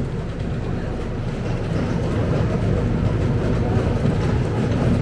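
Scania K270UB single-decker bus under way, heard from inside the passenger cabin: steady rumble of its rear-mounted diesel engine with road and body noise. It gets a little louder about one and a half seconds in.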